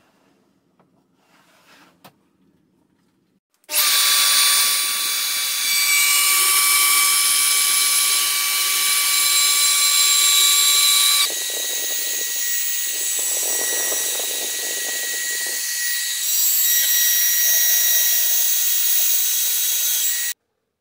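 A small benchtop milling machine cutting metal: a loud, steady grinding whine with several high-pitched tones. It starts abruptly about four seconds in, changes character twice, and cuts off suddenly near the end.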